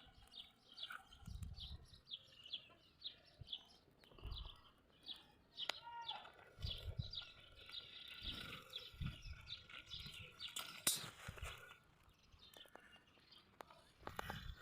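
Small birds chirping over and over, short high chirps a few times a second that thin out near the end. A few soft low thumps sound in between.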